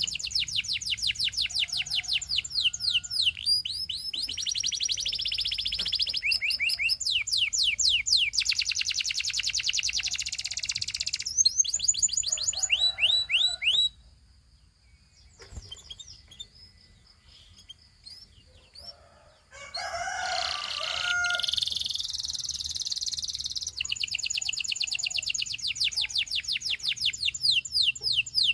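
Domestic canary singing in fast trills of rapidly repeated high notes, falling to faint chirps for about six seconds midway, then trilling again.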